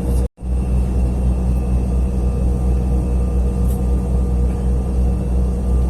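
Cabin noise of an Embraer E175 airliner taxiing: a steady low rumble with constant whining tones from the jet engines and cabin air. The sound cuts out completely for a split second about a third of a second in.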